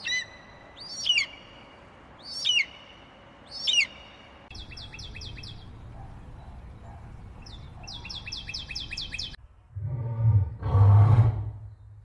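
Gulls calling three times, then a small bird's rapid high chirping in two quick runs, then two loud, low lion roars near the end.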